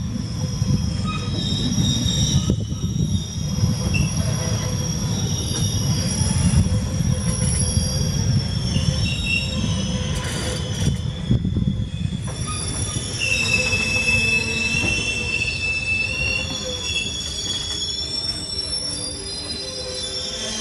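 Passenger train rolling in and slowing, a heavy low rumble from the coaches with high-pitched squealing from wheels and brakes; one steady squeal holds for about three seconds midway, and the rumble eases toward the end.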